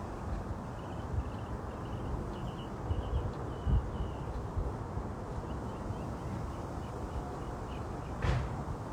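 Outdoor ambience: a steady low background rush with a bird's faint, quick chirps repeating in short runs through most of it. A single sharp tap sounds near the end.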